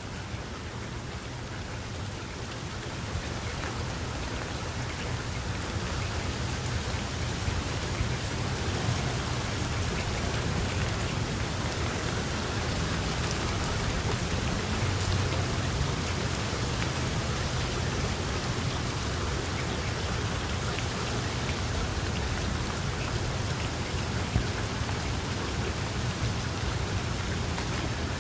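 Steady heavy rain falling on a surface, a dense even patter with a low rumble underneath, growing louder over the first several seconds and then holding steady.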